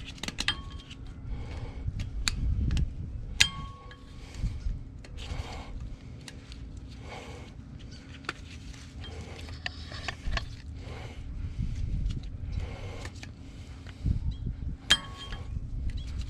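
Steel hand tools clinking against the front hub and spindle of a 1978 Ford truck while the spindle nut, hub and rotor are being removed. Three sharp metallic clinks ring briefly, near the start, about three and a half seconds in and near the end, between softer handling noises over a steady low hum.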